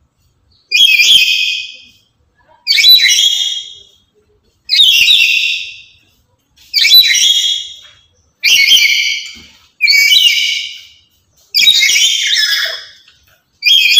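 Black-capped lory giving loud, harsh, screeching calls, one about every two seconds.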